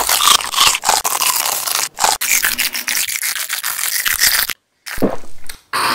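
Loud, close-up crunching and chewing of a gigantic hot Cheeto puff: a dense run of crisp crackles that breaks off suddenly for a moment about four and a half seconds in, then resumes.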